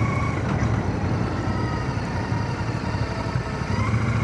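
Royal Enfield Shotgun 650's parallel-twin engine running on the road, heard through a mic inside a full-face helmet along with wind and road noise. The engine eases off about half a second in and picks up again with a rising whine near the end.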